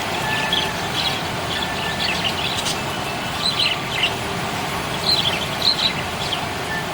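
Budgerigars chirping in short, scattered twitters, busiest about halfway through and again near the end, over a steady background noise.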